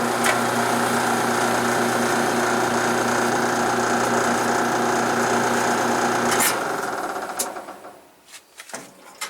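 1976 Westinghouse electric dryer's motor energised for a start, giving a loud, steady electric hum. About six and a half seconds in it cuts off with a click and the sound dies away over a second or so. This is a hard-start attempt on a motor whose worn bronze bushing lets the shaft tilt.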